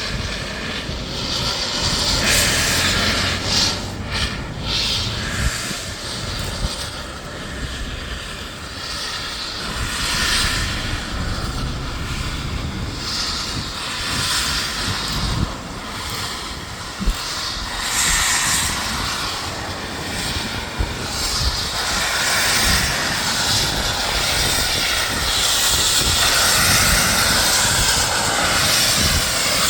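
Steam locomotive working hard, its exhaust beats coming as repeated chuffs over a low rumble, growing louder toward the end.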